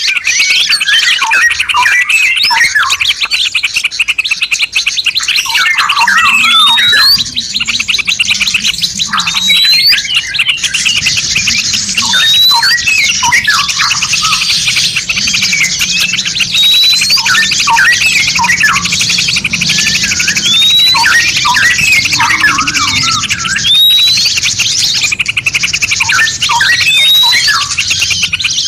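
Several songbirds singing at once: a fast, continuous chattering trill, overlaid by a short rising whistle repeated about every second and a half.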